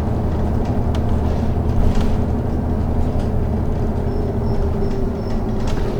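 City bus interior while driving: steady engine and road noise.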